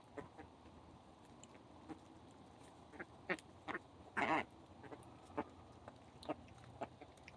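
A flock of birds calling in short, scattered calls, with one longer and louder call about four seconds in.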